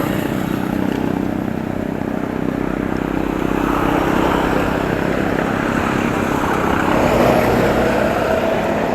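Steady rumbling road and wind noise on a bike-mounted camera's microphone during a ride. A motor vehicle's engine hum rises in the second half.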